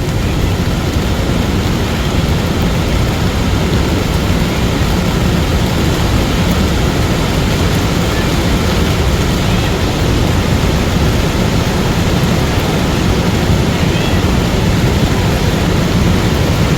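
Steady, loud noise of strong wind and rain, with the rumble of a large lahar mudflow in the river below. It runs on evenly without a break.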